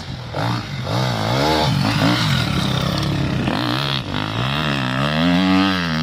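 Enduro motorcycle engine revving, its pitch rising and falling several times, with a longer climb and drop near the end.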